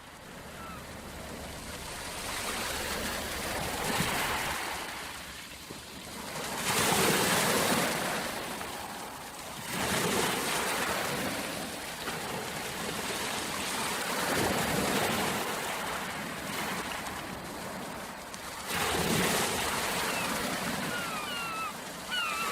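Waves washing onto a shore in repeated surges, each swelling up and falling back every three to five seconds. A few faint bird chirps come near the end.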